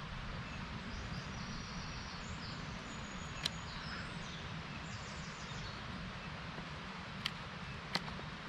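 Steady outdoor ambience with small birds chirping in short trills during the first half. Three sharp clicks come about midway and twice near the end.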